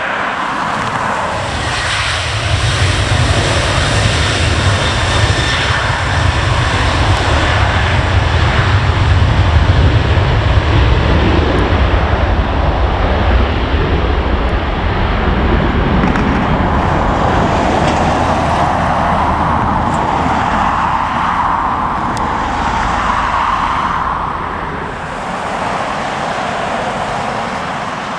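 Jet airliner's engines at take-off power as it rolls down the runway and climbs away: a loud, deep rumble that fades near the end.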